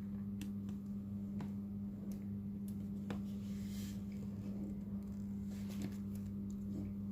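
Small clicks and a brief scrape from tools and parts being handled while a phone display is repaired, over a steady electrical hum.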